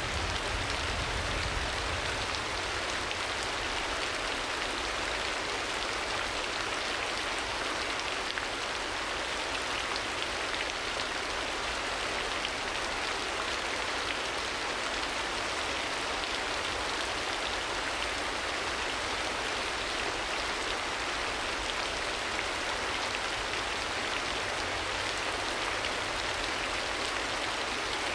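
Steady rain: a continuous, even hiss of falling rain with a low rumble underneath, unchanging throughout.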